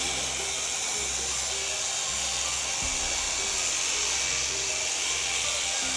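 Electric sheep-shearing handpiece running steadily as it is pushed through the fleece, a constant buzz with a high hiss.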